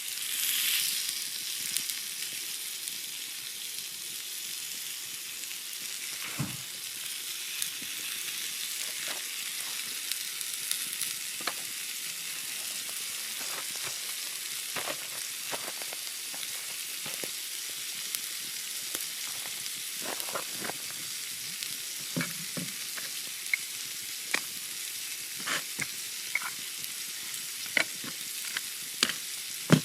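Steak sizzling on a steel griddle plate over an open fire: a steady hiss, louder for a moment about half a second in, with scattered sharp pops and crackles that grow more frequent in the second half.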